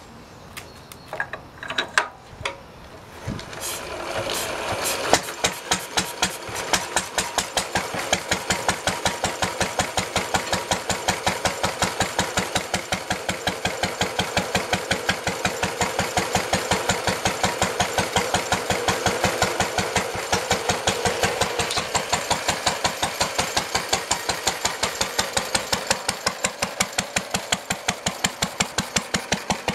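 Lister D single-cylinder petrol stationary engine starting: a few knocks, then it catches about three to four seconds in and settles into a steady, even exhaust beat of about five a second, driving a belted generator.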